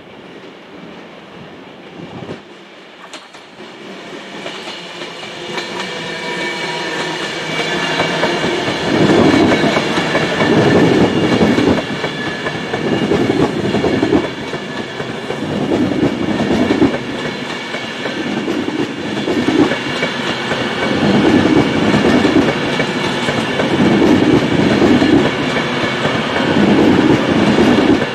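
A train approaching and passing close by, growing louder over the first several seconds. Then its wheels clatter over the rail joints in a repeating rhythm as the carriages go by, over a steady mechanical hum.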